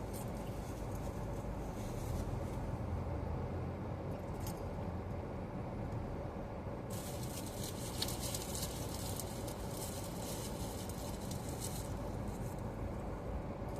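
Road noise inside a moving car's cabin: a steady low rumble of engine and tyres, with the air conditioning blowing. A louder hiss rises from about halfway through and fades near the end.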